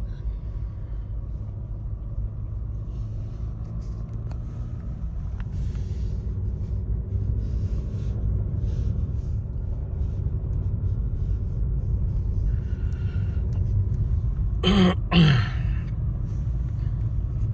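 Steady low rumble of a car's engine and tyres heard from inside the cabin while driving on snowy roads. Two short vocal sounds stand out about fifteen seconds in.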